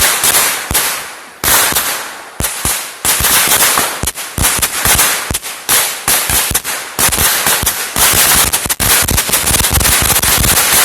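Firecrackers going off in a rapid, dense crackle of bangs, with brief lulls now and then.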